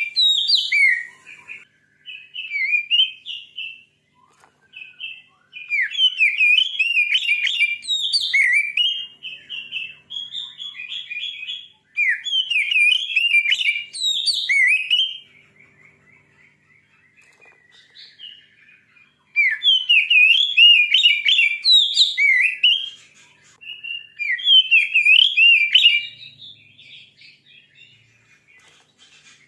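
Oriental magpie-robin (kacer) singing a loud, fast, varied song of sweet whistles and chattering notes, in bursts of several seconds with short pauses between them. This is the fierce, aggressive song that keepers play to rouse a captive male.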